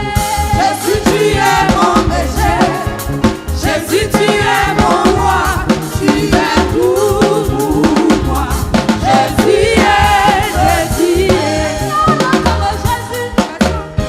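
Upbeat gospel choir praise song: voices singing over a drum kit with snare hits and bass, with a steady beat.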